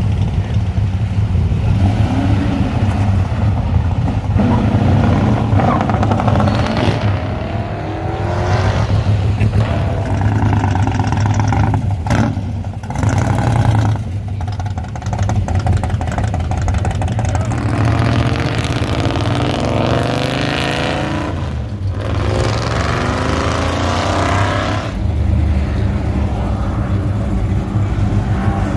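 Classic American V8 muscle cars pulling away one after another, engines revving up and dropping back several times over a steady low rumble of idling engines.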